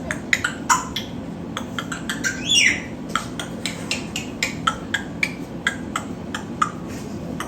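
A young pet bird chirping in a rapid series of short, sharp calls, about two or three a second, with one longer call that rises and falls about two and a half seconds in.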